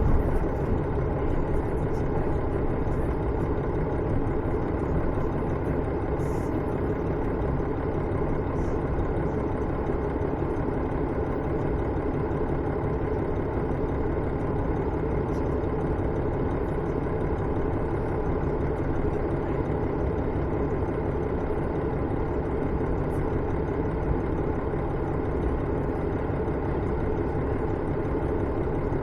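KiHa 110-series diesel railcar running between stations, heard from inside the car: a steady drone of the diesel engine and the wheels on the rails, with a few faint light ticks.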